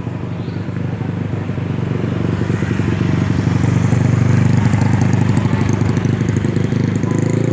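A road vehicle's engine running close up, growing louder about two seconds in and then holding steady.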